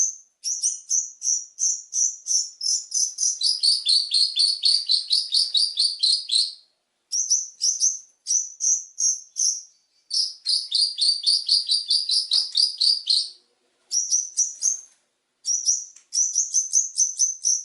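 Long-tailed shrike (cendet) singing: fast runs of sharp, high chirps, about five or six a second, in phrases of a few seconds with short pauses between them. In two of the longer phrases the chirps drop to a slightly lower pitch.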